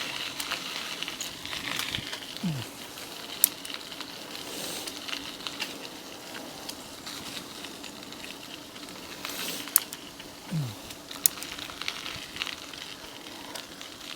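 Mountain e-bike tyres rolling along a trail: a steady hiss with scattered clicks and rattles from the bike. Twice there is a short, low falling tone.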